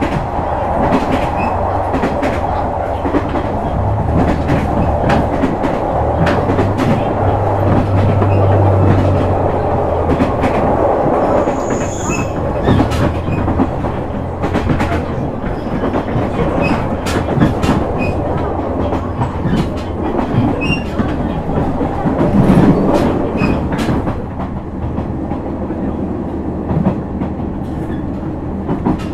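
KiHa 126 series diesel railcar running, heard from on board: a low diesel engine drone under a rhythmic clickety-clack of the wheels crossing rail joints. The engine note is strongest in the first third, and the sound eases slightly near the end.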